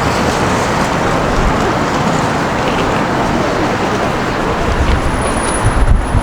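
Busy city street ambience: steady traffic noise mixed with the voices of passers-by. A faint thin high-pitched tone runs through the second half, and low rumbles swell near the end.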